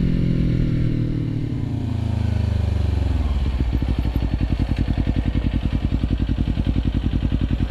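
Kawasaki Ninja 250 parallel-twin engine with its revs falling for about three seconds, then settling into a low, steady putter with a fast, even pulse.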